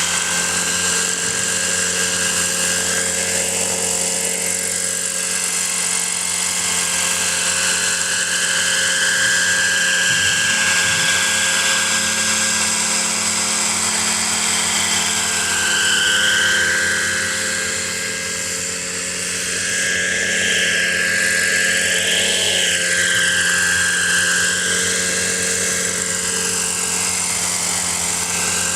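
Four-stroke engine of a Kalt Baron Alpha radio-controlled model helicopter running steadily with its rotors, its high whine bending up and down in pitch a few times in the second half.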